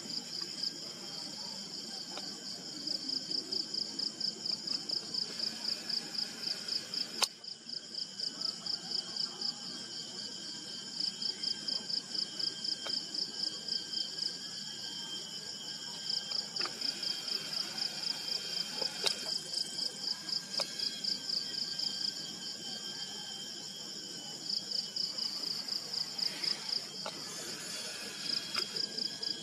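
Insects calling in a high, pulsing chorus that comes and goes in bouts several seconds long, over steadier high tones. A single sharp click sounds about seven seconds in.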